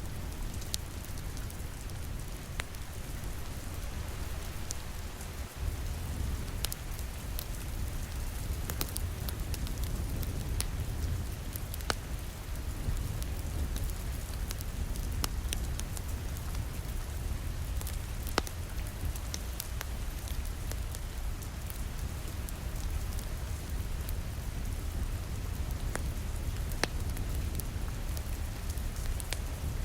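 Steady rain pattering against a window, with a low rumble underneath, mixed with the scattered sharp pops and crackles of a wood fire in a fireplace.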